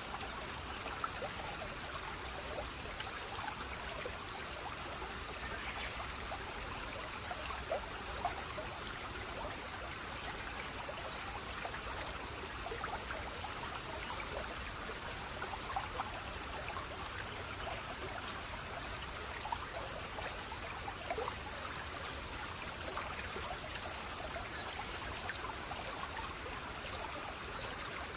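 Running water flowing and trickling steadily, with many small irregular splashes and drips over it.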